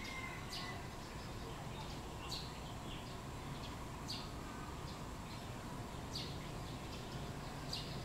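A small bird giving short, sharp, high chirps, each a quick downward sweep, repeated about every two seconds over steady outdoor background noise.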